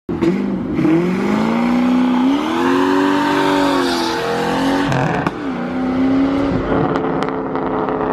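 A car engine revving. Its pitch climbs over the first few seconds and falls back, drops sharply with a click about five seconds in, then holds fairly steady.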